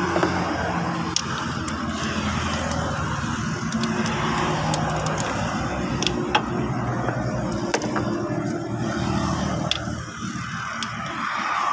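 A motor-vehicle engine running steadily, its pitch shifting a little now and then. Over it come scattered light metallic clicks as spark plugs are handled and set down on the cylinder head.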